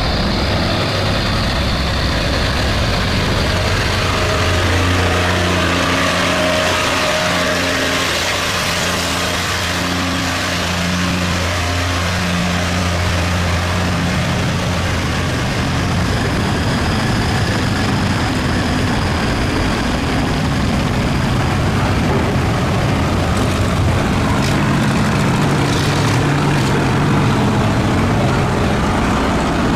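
Boat engines running steadily, with one engine's low hum coming up strongly and then fading away over a constant background of engine noise.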